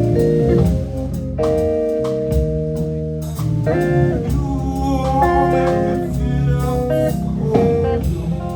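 Live band music between sung lines: held organ chords under a guitar line, with drums keeping time.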